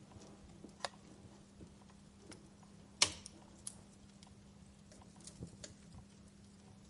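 Wood fire crackling in a fireplace: sparse small ticks and pops, with a sharper pop shortly before the first second and one loud sharp pop about three seconds in.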